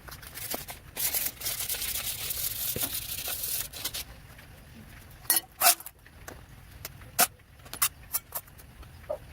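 Hand work on old fan parts: about three seconds of high, even scraping or hissing, then a few sharp clicks and knocks.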